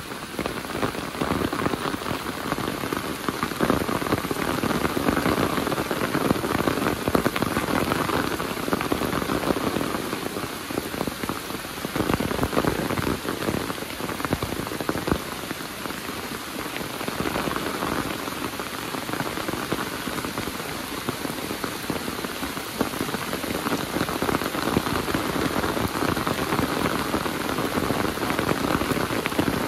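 Heavy rain falling steadily, a dense patter of countless drops that swells and eases slightly in loudness.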